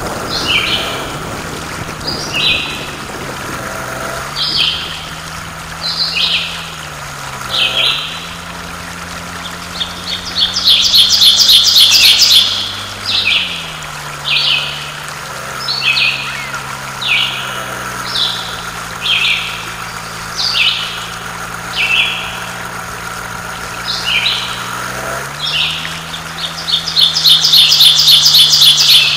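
Birdsong: short chirps repeating about once a second, broken twice by a longer, louder rapid trill, over a faint low drone that shifts in pitch now and then.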